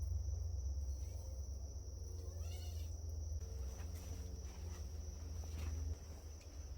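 Steady high-pitched insect chorus of crickets or katydids over a low rumble, with a short pitched animal call about two and a half seconds in and a few faint clicks.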